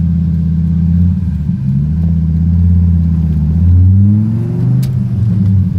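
Hennessey-modified 2002 Dodge Viper's V10 engine pulling on the road, with a brief dip about one and a half seconds in. Its pitch then climbs through the second half as it revs up.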